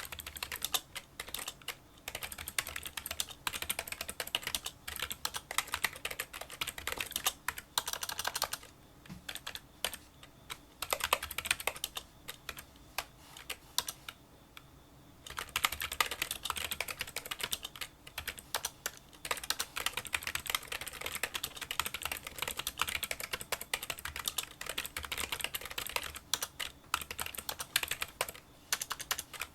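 Touch-typing on a Kinesis Freestyle Solo split keyboard with membrane key switches: a rapid, continuous run of small, fairly quiet clicking keystrokes. Short pauses come about a third of the way in and again around the middle.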